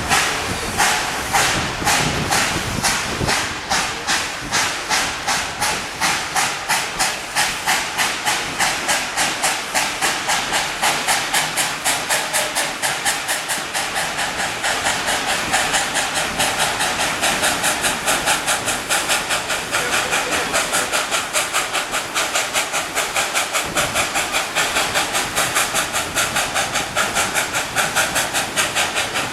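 Narrow-gauge steam locomotive chuffing as it pulls the train away, the exhaust beats speeding up from about two a second to three or four a second as it gathers speed.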